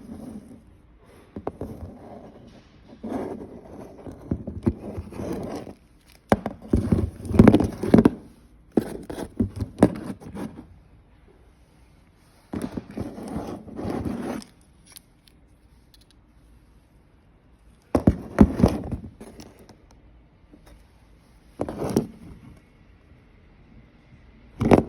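Handling noise: a series of scraping, crackling bursts and knocks, each a second or two long, with short quiet gaps between.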